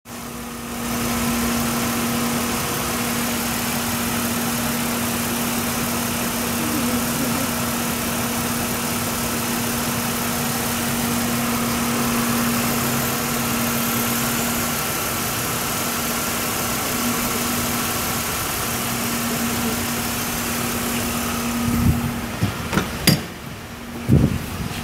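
Holden Statesman's 3.8-litre 3800 V6 idling steadily under the open bonnet, one constant hum with a hiss above it. Near the end a few sharp knocks and clatters break in as the engine keeps running.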